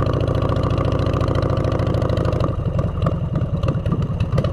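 Motorcycle engine running through aftermarket exhaust pipes, steady at first; about two and a half seconds in its sound changes, turning rougher and less even.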